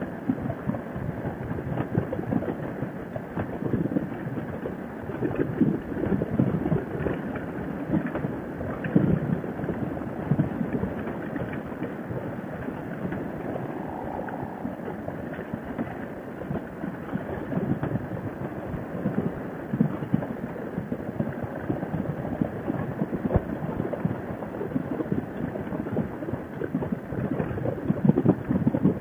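Wind buffeting the microphone on a moving Harley-Davidson Sportster motorcycle, a gusty rumble with the bike's running and road noise underneath.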